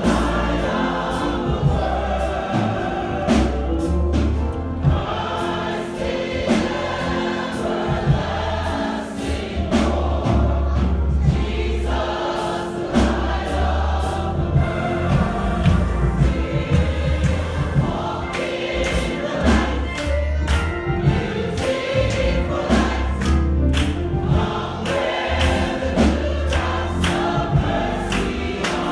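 Congregation singing a gospel song together over instrumental accompaniment with a strong bass line and a steady beat.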